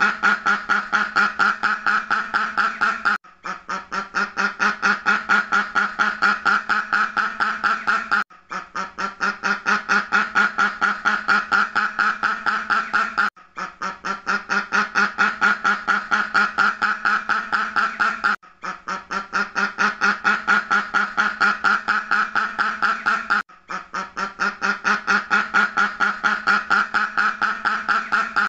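Duck quacking in a rapid, unbroken run of short quacks, several a second. The same stretch of about five seconds repeats over and over, with a brief break and a quick swell back up between repeats.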